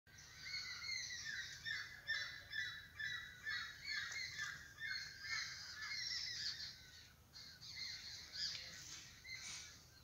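Birds calling in a busy chorus of short, repeated calls, about two a second, thinning out after about seven seconds.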